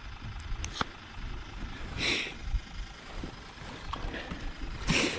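Wind buffeting the microphone as a steady low rumble, with a few small clicks in the first second and two short hissing splashes, one about two seconds in and one near the end.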